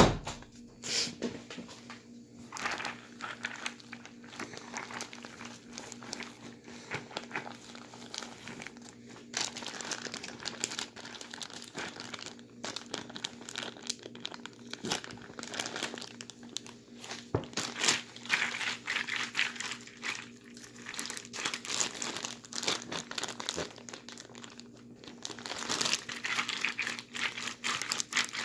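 Plastic bag crinkling continuously as it is shaken and squeezed, with ice and salt inside, to freeze the drink in the inner bag into slush. The crinkling comes in irregular crackles and gets louder and busier near the end.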